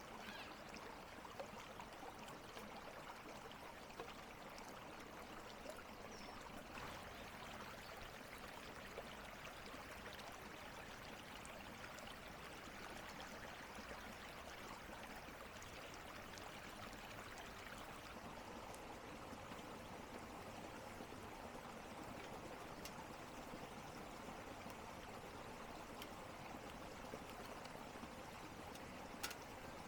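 Faint steady rushing of a flowing stream, with a few soft clicks here and there.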